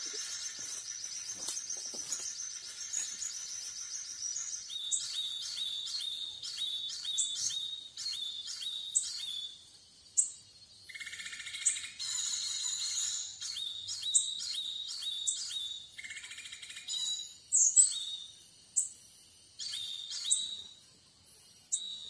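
Small birds chirping: quick series of short, high chirps, with a thin high whistle at the start. Two brief buzzy hisses come about halfway through.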